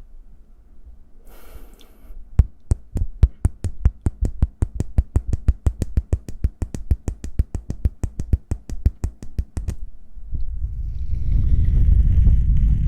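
Hand sounds close to the microphone: a fast, even run of sharp taps, about five a second, for roughly seven seconds. Then a loud, low, dense rustling rumble, like hands rubbing right at the mic.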